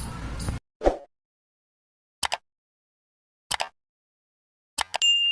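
Low room hum cuts off abruptly under a second in, leaving dead silence broken by short edited sound-effect hits about every second and a half. A bright ding starts near the end and rings on, fading away.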